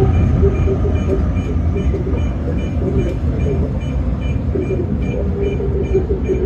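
Electric commuter train running with a steady low rumble, over which a short high two-tone beep repeats about three times a second.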